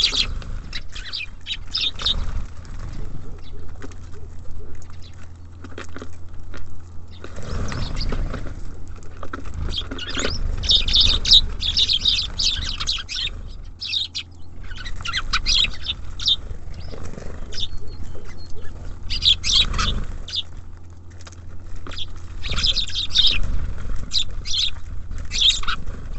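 Small songbirds at a feeder, such as tits and sparrows, giving many short, high chirps, with fluttering wings and a few dull knocks as they come and go.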